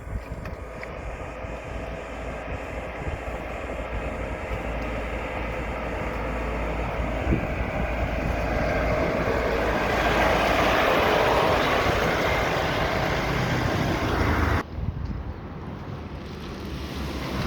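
A steady rushing of a passing motor vehicle, growing louder for about fourteen seconds and then dropping away suddenly.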